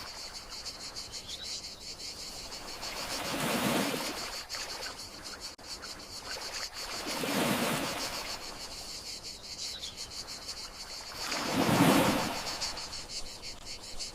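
Gentle sea waves washing ashore about every four seconds, three swells in all, the one near the end the loudest, over steady chirring of crickets.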